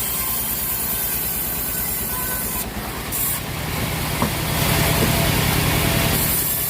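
Sawmill machinery engine running steadily with a low, rhythmic pulse, and a louder stretch of hissing noise from about three to six seconds in.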